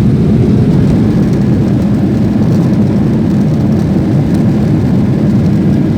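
Passenger airliner heard from inside the cabin during landing: a loud, steady rumble of engine and airflow noise.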